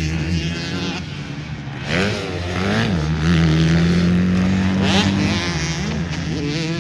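Motocross bikes racing, their engines revving up and dropping back through gear changes; the pitch climbs and falls several times and holds steady for a couple of seconds in the middle.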